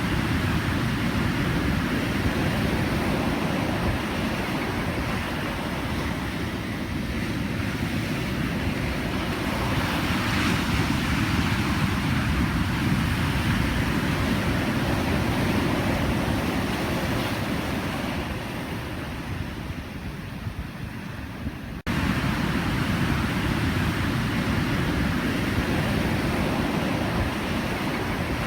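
Pacific Ocean surf: a continuous wash of breaking waves, heaviest in the low rumble. It swells about ten seconds in, eases off later, then jumps back up abruptly about 22 seconds in, like an edit.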